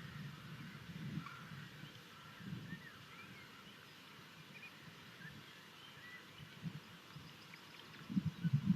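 Faint scattered bird chirps and short whistles over a low irregular rumble on the nest-box microphone, with louder low thuds starting near the end.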